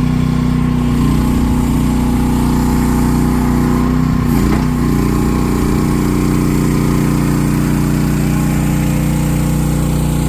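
Mini ride-on skid steer loader's engine running steadily, its pitch dipping briefly about four and a half seconds in before settling back.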